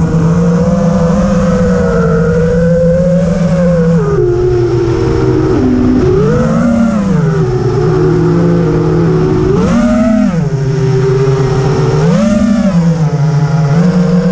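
FPV racing quadcopter's brushless motors (Lumenier RX2206 2350KV) spinning 5-inch tri-blade props in flight, a steady whine whose pitch swells up and back down with throttle punches about six, ten and twelve seconds in.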